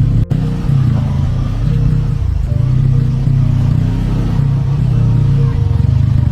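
Motorcycle engine rumble on the move, mixed with background music. There is a brief gap in the sound just after the start.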